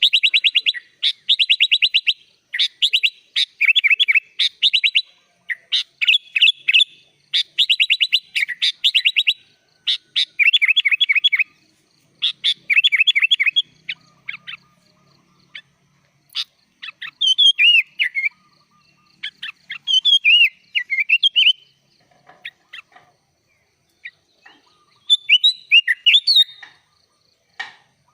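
Sooty-headed bulbul (kutilang) singing hard, a song billed as full of isian, phrases copied from other songbirds. In the first half it sings bursts of fast, rapidly repeated notes about a second long; after that come slower, separate whistled phrases, a short pause, and one more burst near the end.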